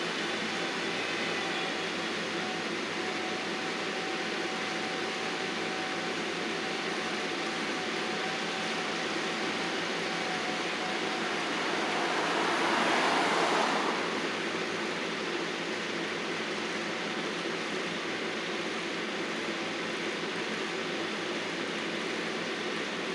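Engine-driven landscaping machinery running steadily, with a faint steady whine that fades out about halfway through and a brief swell of rushing noise shortly after.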